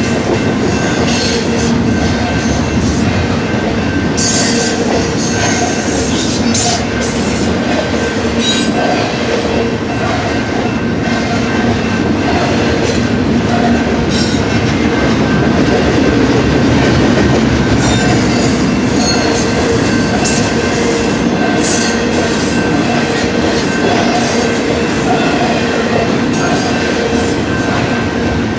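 Double-stack intermodal well cars rolling steadily past at speed: a continuous heavy rumble of the train, with steel wheels squealing and clattering on the rail.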